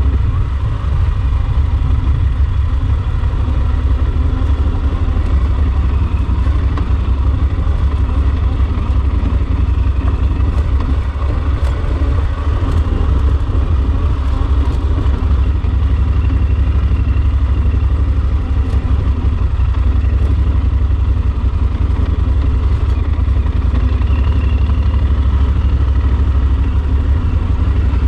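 Yamaha Super Ténéré XT1200's parallel-twin engine running steadily under way, with a loud, unbroken low rumble.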